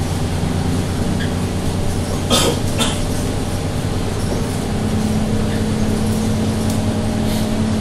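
Diesel engine of a Scania K230UB bus running steadily, its note stepping up about five seconds in, with two short bursts of hiss about two and a half seconds in.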